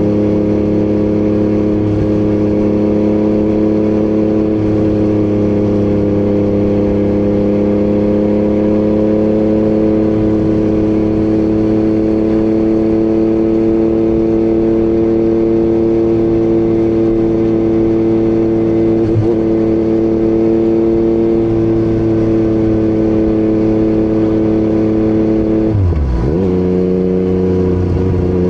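Yamaha MT-09 three-cylinder engine with an Akrapovic exhaust, cruising at a steady, even engine speed. Near the end the pitch dips sharply and then comes back up.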